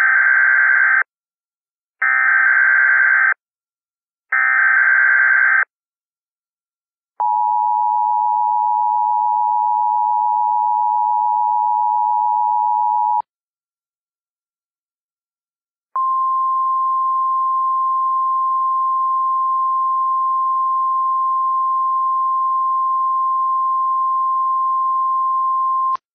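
Emergency Alert System signal: three short buzzing bursts of the SAME digital header, then the two-tone attention signal held steady for about six seconds, a pause of about three seconds, and a single steady 1050 Hz weather-radio warning tone for about ten seconds. These tones announce an incoming severe thunderstorm warning.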